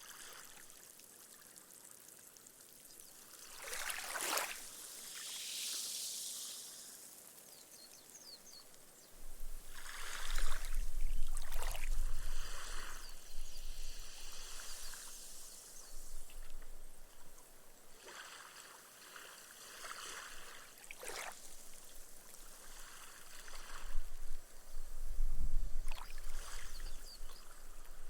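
Small, gentle waves lapping onto a sandy beach, each wash hissing and fizzing as the water sinks into the sand as foam. Several separate surges come in turn, the loudest about ten and twenty-five seconds in, with a low rumble underneath from about nine seconds in.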